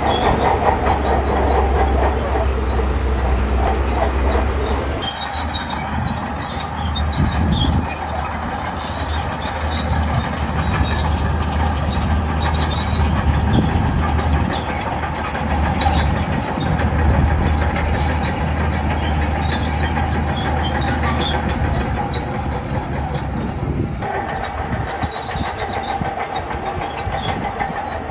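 Shantui crawler bulldozer at work: its diesel engine running under load while the steel tracks clank, with a steady high squeal over the top. The low engine rumble eases about five seconds in.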